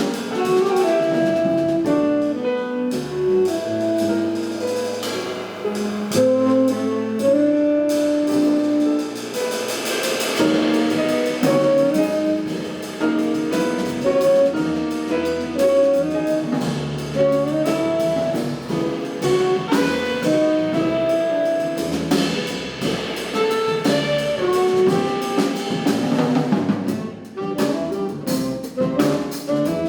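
Live jazz quartet playing an up-tempo tune: saxophone carrying a fast, running melodic line over piano, double bass and drum kit with busy cymbals.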